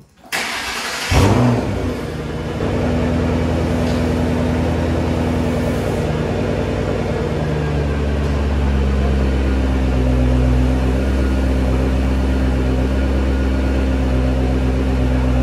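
Shelby GT500's supercharged V8 starting, with a quick rev flare about a second in, then idling steadily. About halfway through the clutch is let out in gear, so the engine turns the raised rear wheels freely and its note deepens. This is a test of whether the clutch, with its new master cylinder, now fully disengages.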